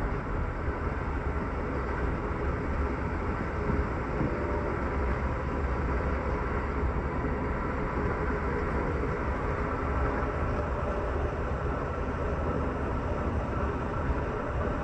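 Amtrak Superliner sleeping car heard from inside its lower level while the train runs at speed: a steady deep rumble of wheels on rail and car body, with even rail noise over it and no distinct clicks or bumps.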